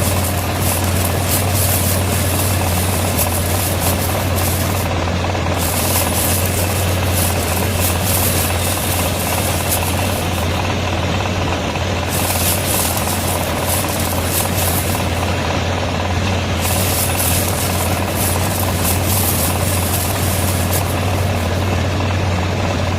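Homemade tractor's engine running steadily, with a strong low hum under a dense mechanical noise.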